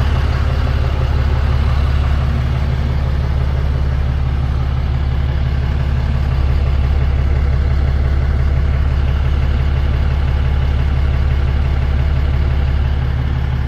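Tow truck engine idling steadily, a constant low rumble.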